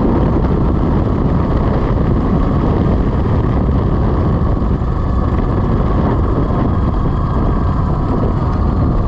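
Steady wind rumble on the microphone with road noise while riding the Velimotors VMX12-F electric motorcycle.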